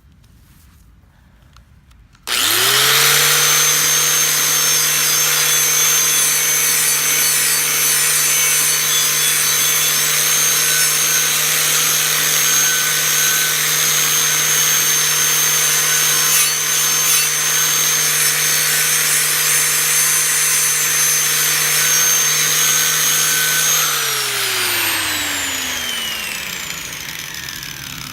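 Angle grinder switched on about two seconds in, running at a steady pitch while it grinds and brushes rust off a steel machete blade. Near the end it is switched off and winds down with a falling whine.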